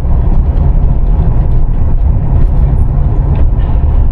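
Steady low rumble of a car driving along a road, engine and tyre noise with no distinct events.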